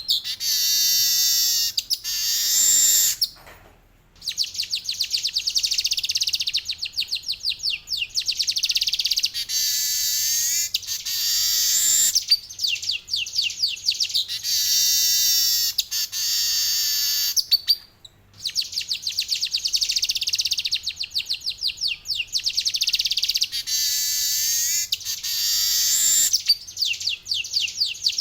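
Male manyar (weaver bird) singing long, rapid, buzzy chattering rolls, high-pitched and nearly continuous, broken by two short pauses, about four seconds in and again about eighteen seconds in.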